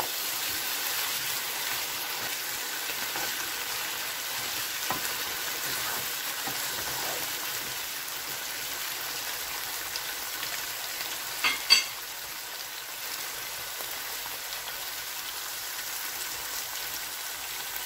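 Chicken masala sizzling in a frying pan over high heat as a spatula stirs it, the last of its liquid cooked off. Two sharp clicks about two-thirds of the way in stand out above the steady sizzle.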